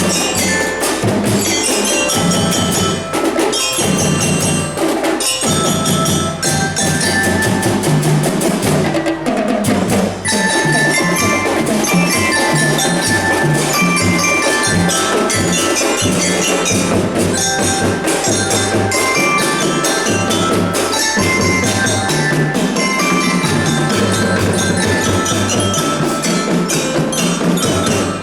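Marching drum band playing: a bright mallet-bell melody, bell lyra or glockenspiel, over a steady beat of marching drums.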